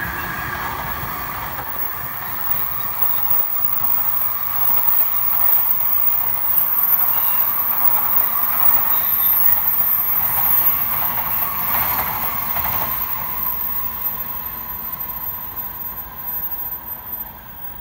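N700-series Shinkansen running past. Its steady wheel-and-track noise grows louder through the middle and dies down near the end as the train draws away.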